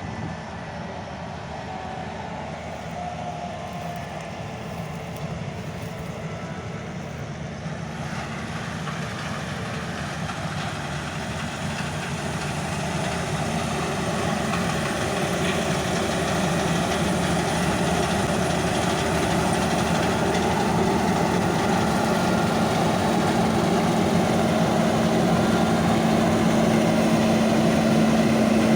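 Heavy farm machinery running, growing steadily louder, with a steady low hum coming up near the end.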